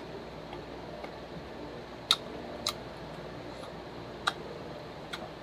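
Close-up chewing of fried chicken: four short, sharp wet mouth clicks and smacks, spaced irregularly, over a steady low hum.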